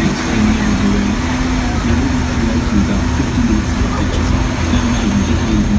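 Open-air tour tram driving along: a steady engine drone with a slightly wavering pitch over a continuous low road rumble.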